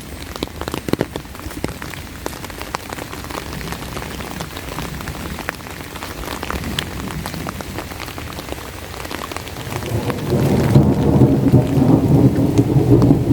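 Steady rain with many close drops ticking. About ten seconds in, a long low roll of thunder builds and is still rumbling at the end.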